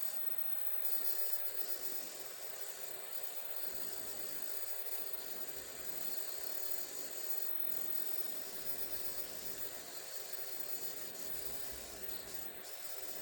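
A steady hiss with no distinct events.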